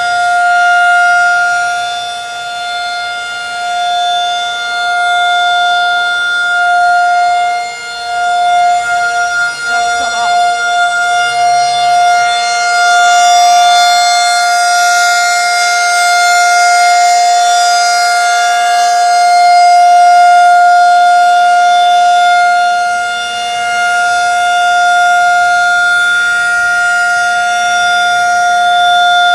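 Outdoor warning siren sounding a loud, steady single-pitch tone, its loudness swelling and fading slowly every several seconds, with a brief dip and waver about a third of the way in.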